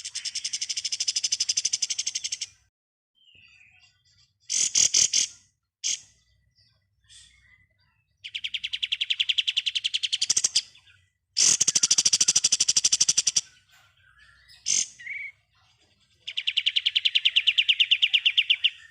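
Kapas tembak songbird singing in its rapid machine-gun-like rattling 'ngebren' style: four long, fast, evenly pulsed trills of about two seconds each, separated by short sharp chirps.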